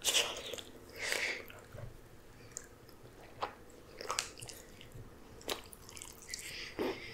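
A person chewing saucy black bean fire noodles close to the microphone, with short wet smacks and clicks of the mouth about once a second.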